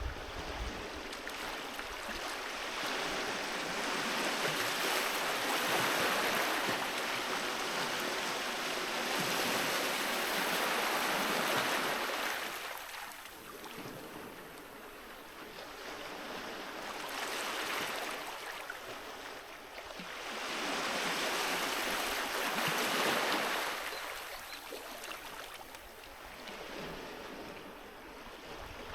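Sea waves breaking and washing on a beach, the surf swelling and ebbing in long surges: louder from a few seconds in until about halfway, dipping, rising again a few seconds later, and fading near the end.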